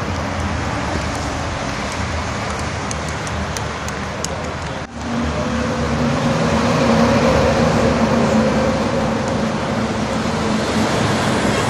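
Steady rush of passing road traffic on a busy expressway. About five seconds in, the sound breaks off for a moment, then a louder, heavier engine drone rises over the traffic.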